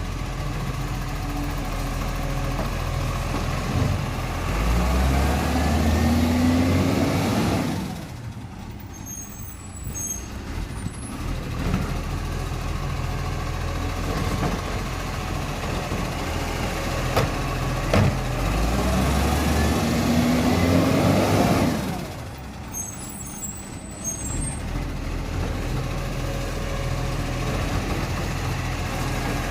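Garbage truck's diesel engine roaring as it revs up, rising in pitch, then dropping back suddenly to idle about 8 seconds in; it revs up the same way again and drops back about 22 seconds in.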